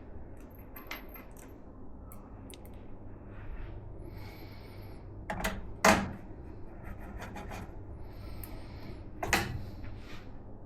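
Hands handling PC-building parts, with rubbing and small clicks. A sharp knock comes about six seconds in, the loudest moment, and another comes a little after nine seconds.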